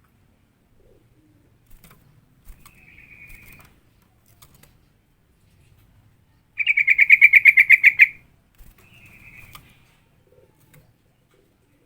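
Yellow-vented bulbul (trucukan) calling in three bouts of fast, rattling chatter. The middle bout is the loudest and runs about a second and a half, at roughly ten notes a second, with two fainter bouts before and after it.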